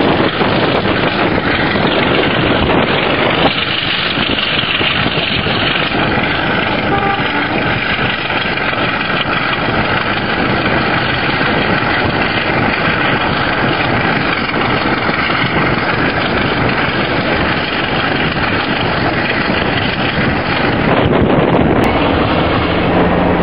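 Class 33 diesel locomotive's Sulzer eight-cylinder engine working hard under power ('thrash'), a loud steady running sound with wind on the microphone. The sound shifts about three and a half seconds in and grows again near the end.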